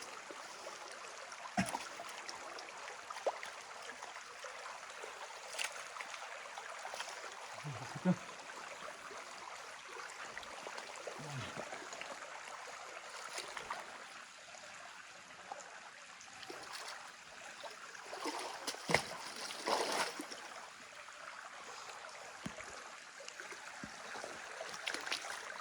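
Stream water running and trickling steadily, with a few brief sharp sounds now and then, the loudest about nineteen to twenty seconds in.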